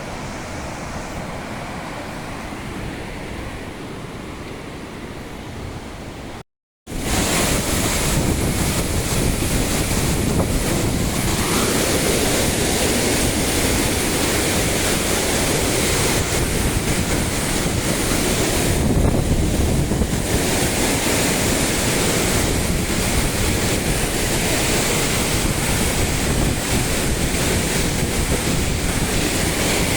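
Steady rush of falling water from a waterfall, loud and even across all pitches, after a sudden cut about seven seconds in; before the cut a quieter, duller outdoor rush.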